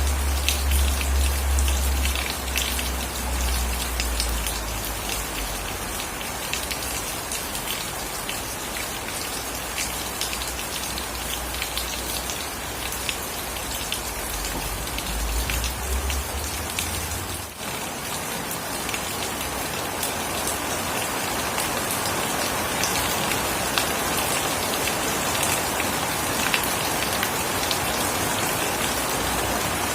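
Steady rain falling, with many individual drops ticking through the wash. A low rumble sits under it for the first half and stops abruptly about 17 seconds in.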